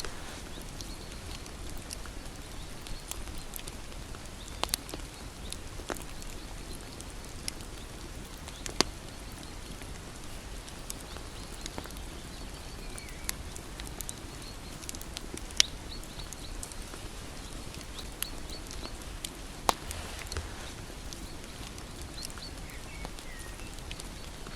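Wood bonfire crackling: scattered sharp pops and snaps over a low steady hiss, with a few louder pops about 9, 16 and 20 seconds in. Faint high chirping runs in the background.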